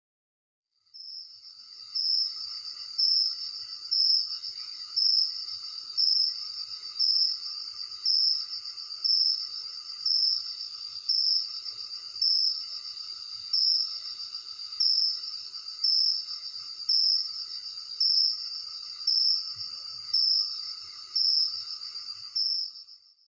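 Crickets singing at night: a steady high-pitched trill with a louder chirp repeating about once a second, starting about a second in.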